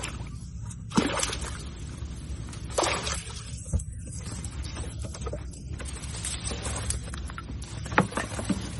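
Shallow water splashing and sloshing, with a few sudden sharp splashes: about a second in, near three and four seconds, and again around eight seconds.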